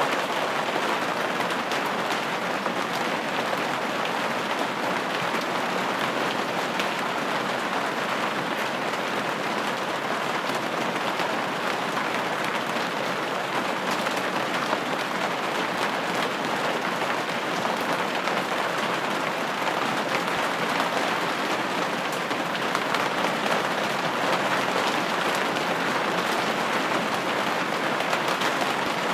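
Steady rain pattering on a window pane, an even wash of drops with no changes.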